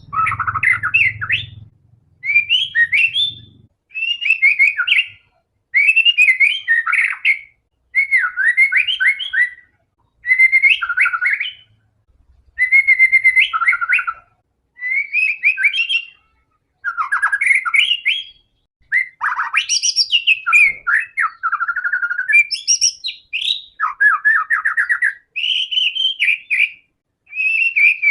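White-rumped shama (murai batu) in full song: a steady run of varied, rich whistled phrases, each a second or two long, with short pauses between them.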